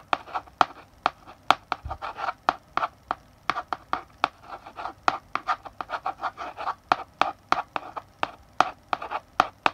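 Chalk writing on a blackboard: quick, sharp taps as the chalk strikes the board, several a second, between short scratchy strokes.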